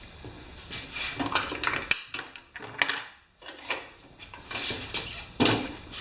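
Metal hand tools clinking and clattering in a few short, irregular knocks as they are handled on the mower.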